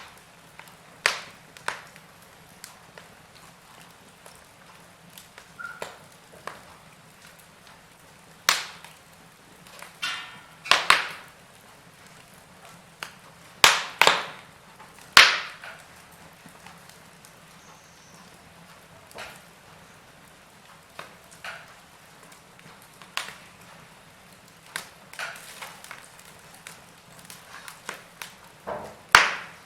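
Wood fire in a fireplace crackling, with sharp pops at irregular intervals over a faint steady hiss. The loudest pops cluster between about nine and fifteen seconds in.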